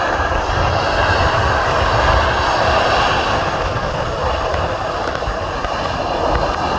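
Airbus A319 twin jet engines at high power on departure: a loud, steady rush of jet noise.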